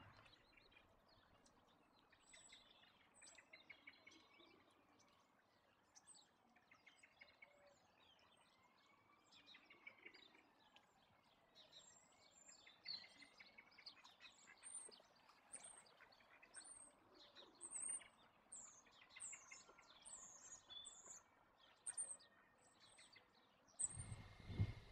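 Faint songbirds chirping: many short, high calls, coming thicker and louder in the second half.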